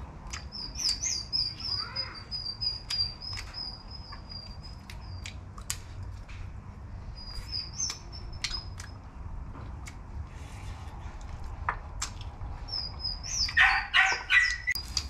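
Small birds chirping in repeated high twittering runs, with scattered sharp clicks and a louder, brief harsh burst near the end.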